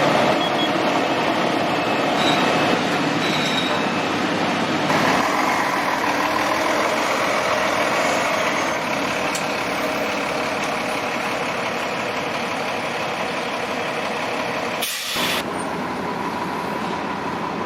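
Heavy diesel vehicles idling in stopped street traffic, a steady engine rumble with a short hiss about fifteen seconds in.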